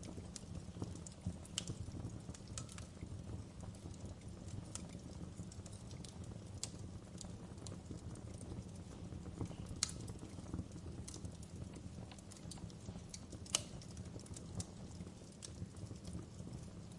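Wood fire burning in a fireplace: a steady low rumble of flames with irregular crackles of burning wood, and two louder pops about ten and thirteen and a half seconds in.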